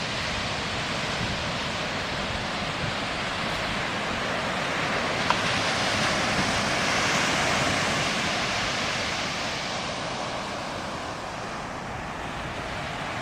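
Pacific Ocean surf breaking and washing up the beach, the rush swelling to a peak about six to eight seconds in and then ebbing, with wind rumbling on the microphone. A brief click about five seconds in.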